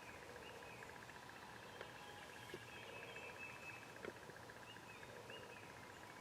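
Faint woodland dawn ambience: distant songbirds calling, a steady fast trill running underneath, and a few soft clicks.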